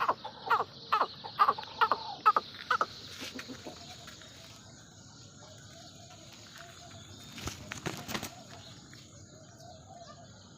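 Parrot-beak aseel chickens clucking: a run of about seven sharp calls in the first three seconds, then softer low clucking. A brief rustle comes about two-thirds of the way through.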